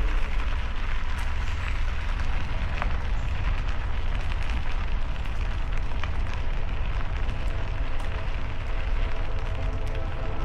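Steady rushing, crackling noise of a bike riding along a gravel trail: tyres crunching on the path surface, with wind rumbling on the microphone.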